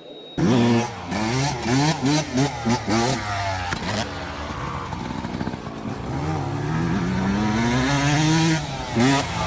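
A vehicle engine starting up suddenly and revving hard, its pitch climbing and dropping several times in quick succession, then rising in one long slow climb.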